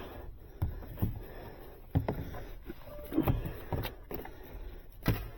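Irregular knocks, scrapes and rustles of hands and a wire being worked inside a wall cavity while fishing a new thermostat wire through it, with a few sharper knocks about two, three and five seconds in.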